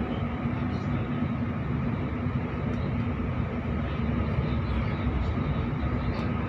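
Sydney suburban electric train running at speed, heard inside the carriage: a steady rumble of wheels on rail with a constant low hum.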